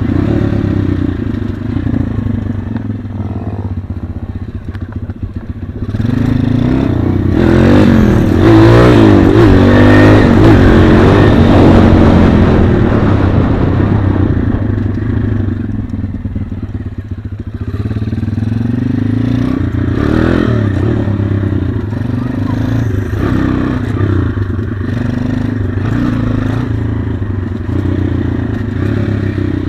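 Pit bike's small single-cylinder four-stroke engine running, revving up about six seconds in to its loudest for several seconds with the pitch climbing and falling, then settling back to a steadier run.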